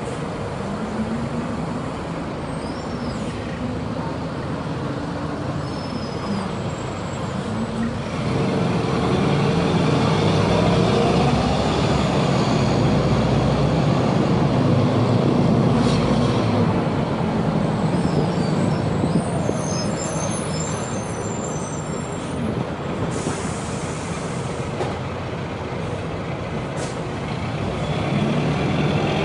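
Agrale MT 17.0 LE bus's four-cylinder diesel engine running under way, its pitch rising and falling as it revs up and eases off. It gets louder about a quarter of the way in as it pulls harder, and there is a short air-brake hiss about three quarters through.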